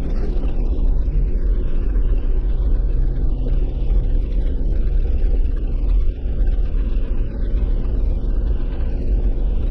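Jeep driving along, heard from inside the cab: a steady low engine and road rumble.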